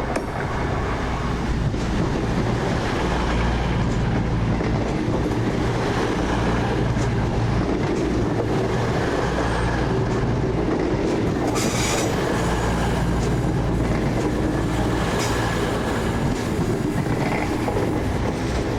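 A train running along the platform line with a steady, loud rumble and wheel noise on the rails. A brief sharp noise comes about twelve seconds in.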